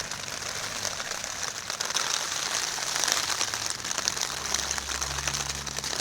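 Heavy rain pattering steadily on the roof of a small shelter, heard from inside it.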